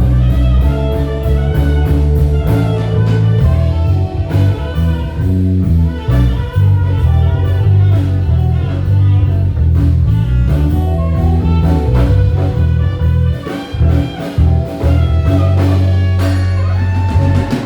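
Live band playing instrumental music in a blues-jazz vein: a strong bass line and drum kit under guitar and keyboard parts.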